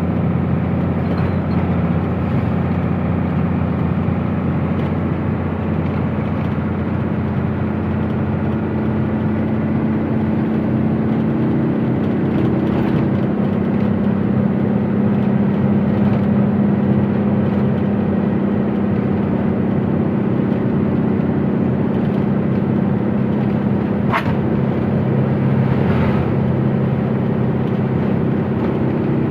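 Truck engine running steadily under way, its drone shifting slightly higher in pitch about a third of the way through, with a brief sharp click near the end.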